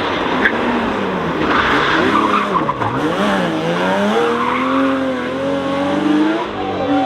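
Rally car engine running hard through a stage, its note falling about three seconds in and then climbing again as the driver lifts and gets back on the throttle, with tyres scrabbling on the road surface.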